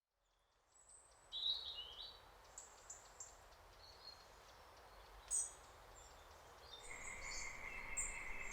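Outdoor ambience fading in from silence, with birds chirping in short, high calls scattered throughout. About seven seconds in, a steady high insect trill joins.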